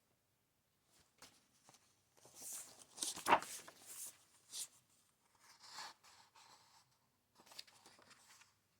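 Pages of a book rustling as they are turned and handled, with a few light clicks and knocks. The loudest rustle comes about three seconds in.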